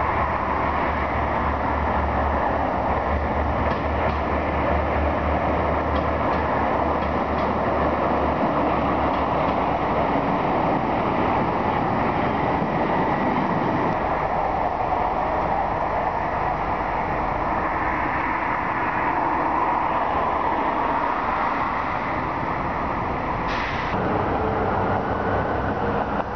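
Diesel multiple-unit train running on the station approach tracks over steady outdoor city noise. Its low engine hum fades out about eight seconds in, and a brief hiss comes near the end.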